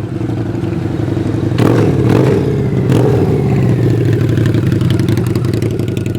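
A car engine running, with a louder surge of revs about one and a half seconds in before it settles back to a steady run.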